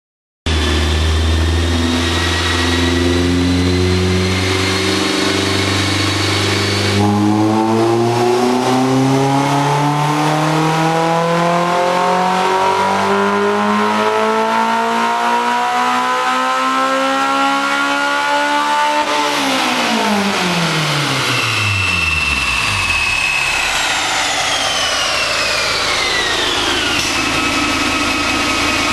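Honda S2000 four-cylinder engine running on a chassis dyno through a dual titanium exhaust: it holds a steady pitch, then about seven seconds in climbs steadily in a full-throttle pull for about twelve seconds. The pitch then drops sharply as the throttle is released, and the car winds down.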